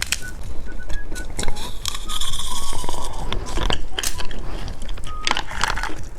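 Popping candy crackling and being crunched close to the microphone, a quick irregular run of sharp snapping clicks.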